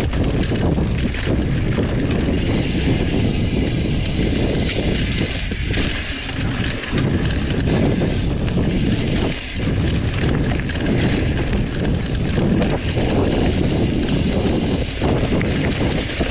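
Mountain bike rolling fast down a dirt trail: a steady rush of tyre and drivetrain noise with mechanical rattling, and wind buffeting the microphone.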